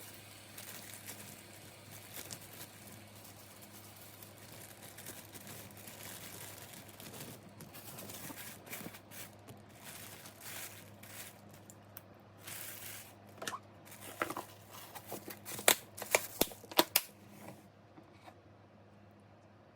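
Rustling, crinkling and tearing sounds of something being handled, with a quick run of sharp loud clicks about three-quarters of the way through, over a steady low hum.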